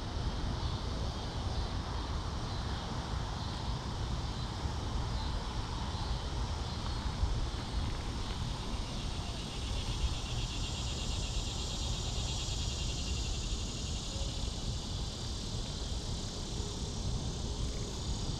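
Insects trilling in a steady pulsing chorus that comes in about halfway through, over a constant low rumble.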